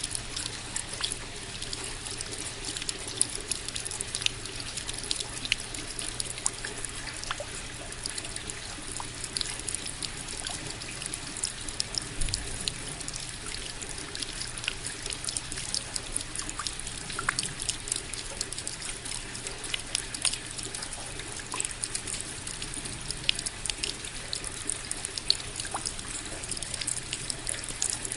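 Steady rain: an even hiss with many sharp drops ticking irregularly.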